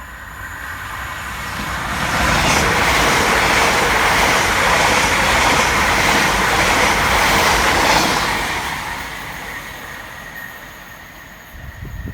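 Class 345 Elizabeth Line electric multiple unit passing fast through the station. The rumble and wheel-on-rail noise builds over about two seconds, holds loud for about six, then fades away.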